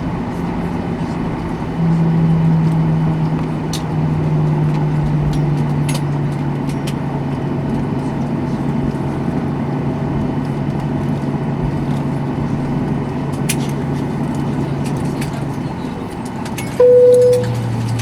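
Cabin noise of a Boeing 737-800 at the end of its taxi after landing: a steady engine hum with a low drone that steps in pitch, and a few light clicks. Near the end the drone drops lower and a single short chime sounds.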